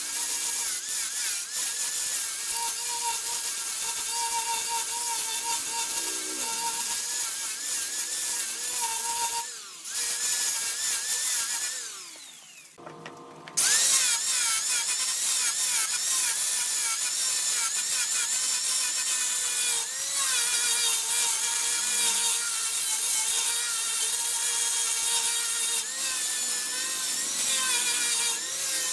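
Wood lathe running while a turning tool cuts the spinning wood: a steady high scraping hiss over a wavering whine. It dips briefly about ten seconds in, then nearly drops away for a second or so before starting again at full level.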